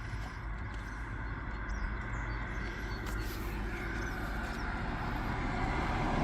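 A vehicle engine running steadily, slowly growing louder, with a few faint bird chirps about halfway through.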